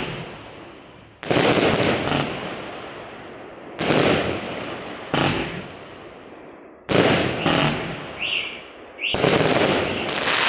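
A 100-shot 20 mm firework cake (battery) firing its volleys: runs of rapid bangs and crackles that start suddenly about every one to two and a half seconds and die away between runs.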